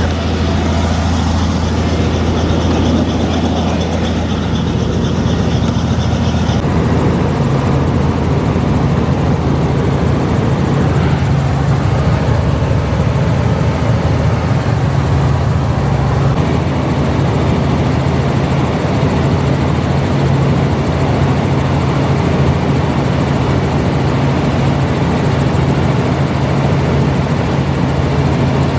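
A vehicle engine running steadily, a loud low hum; a higher hiss over it stops about six seconds in.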